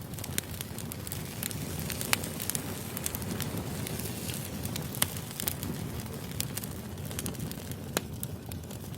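Firewood burning: a steady low rumble of flames with irregular crackles and sharp pops, the loudest pops about two, five and eight seconds in.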